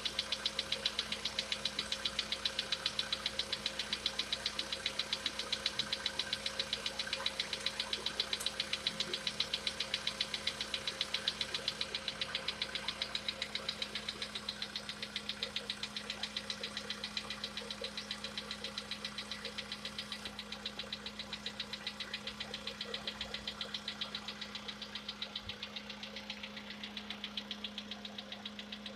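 Volkswagen Polo Sedan's CFNA 1.6-litre petrol engine running at idle with a rapid, even knocking: the engine knock that the decoking treatment is meant to cure.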